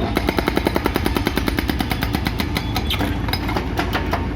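ACE 30S hydraulic rock breaker on a mini excavator hammering in a rapid, even stream of blows, about ten a second, over the carrier's steady engine hum. The blows space out and stop shortly before the end.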